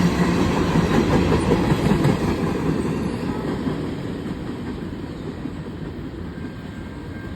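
Train cars rolling past on the rails, wheels clacking over the track, the sound fading steadily as the end of the train moves away.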